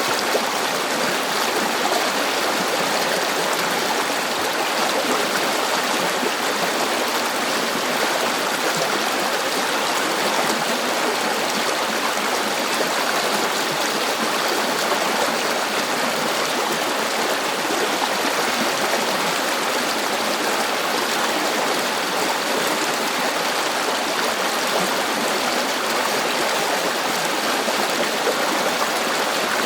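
River water flowing steadily, a continuous even rush without breaks or changes.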